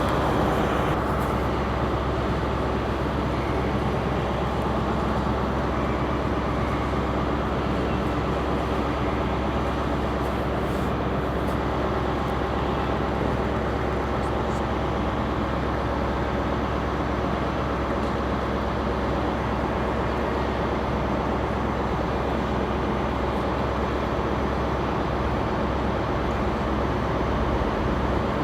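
A train's engines running steadily: a low, even rumble with a constant hum that does not change.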